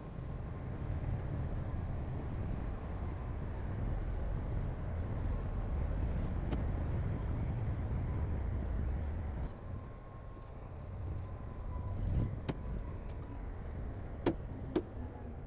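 Heavy construction machinery's diesel engine running, louder for about the first nine seconds and then easing off, with a few short sharp knocks near the end.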